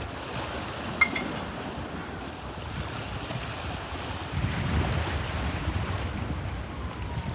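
Waves of the Bosphorus washing, with wind on the microphone, the low rush growing louder about four and a half seconds in. A single short sharp click sounds about a second in.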